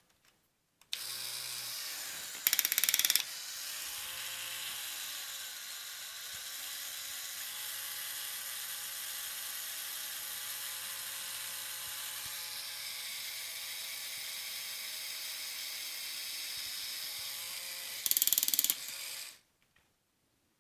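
Lego motor and plastic gears of a motorised Lego truck running steadily for about eighteen seconds, with a whir and gear rattle. Near the start and again near the end there is a short, much louder rattling burst.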